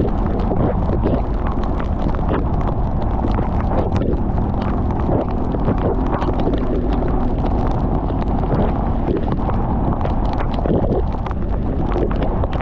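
Motorcycle riding in heavy rain: a steady low rumble of engine and wind on the microphone, with many sharp ticks of rain striking it.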